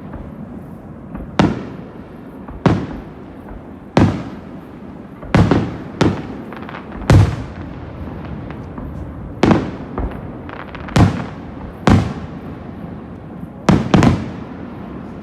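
Aerial firework shells bursting: about a dozen sharp bangs, one every second or two, each trailing off in a short rolling echo, with a little crackle midway.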